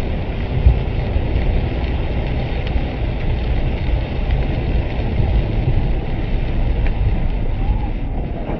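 Steady low rumble of a moving vehicle's road and engine noise, with a single knock under a second in.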